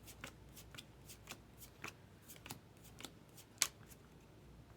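Baseball trading cards being flipped through by hand, card sliding over card in a string of light flicks and snaps, with one sharper snap about three and a half seconds in.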